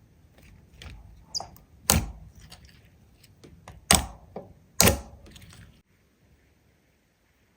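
Slime being squeezed and pressed by hand, giving a string of sharp wet pops and clicks, the three loudest about two, four and five seconds in.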